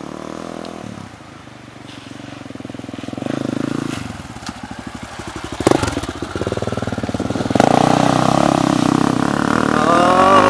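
Motorcycle engine running, its revs rising and falling, with a sharp knock about halfway through.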